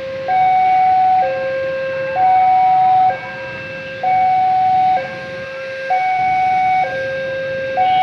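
Railway level-crossing warning alarm sounding a loud two-tone hi-lo signal, switching between a lower and a higher tone about once a second, the signal that a train is approaching the crossing.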